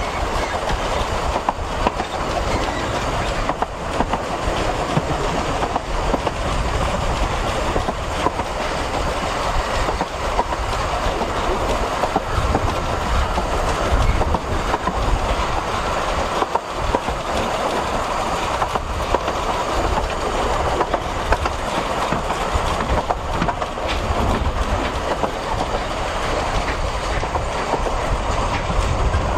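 Narrow-gauge steam train's carriage running along the track, heard from on board: a continuous rumble and rattle, with the wheels clicking over the rail joints.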